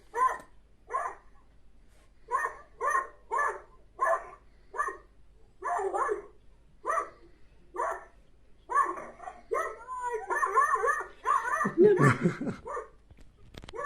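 Zebra barking calls: a long series of short, yelping barks about two a second, growing denser and overlapping from about ten seconds in. A lower, louder sound comes about twelve seconds in.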